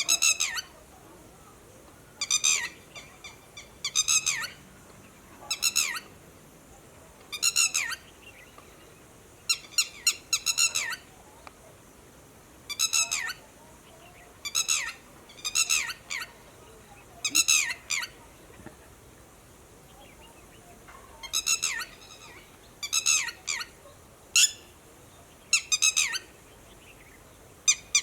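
Red-wattled lapwing giving its alarm call, a warning at human movement: repeated bursts of several quick, high notes, one burst every second or two, with a pause of a few seconds past the middle.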